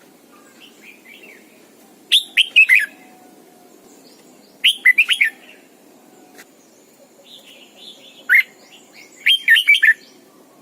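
Red-whiskered bulbul singing short, quick warbled phrases, four loud bursts a few seconds apart, with fainter notes between them.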